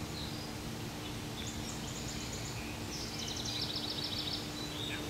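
Songbirds singing over a steady low hum, with a rapid trill of repeated high notes about three seconds in.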